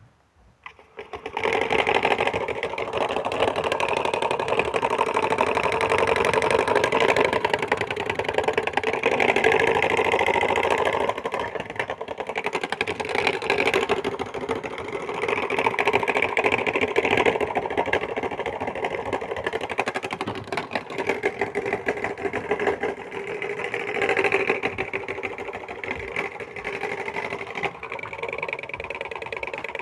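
Washing machine running with its drum shaking hard: a dense, rapid rattling clatter that starts about a second in and swells and eases in waves.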